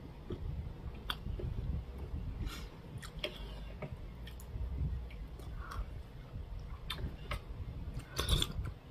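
A person chewing food, with small wet mouth clicks. Near the end comes a short, louder noisy sound as a spoonful is taken into the mouth.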